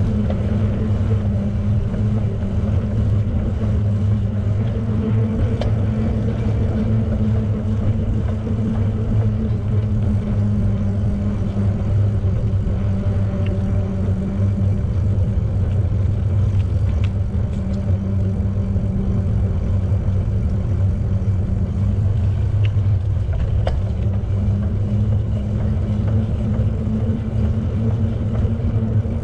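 Steady low rumble of riding noise, tyres rolling and wind on the microphone of a moving bicycle, with a few faint ticks.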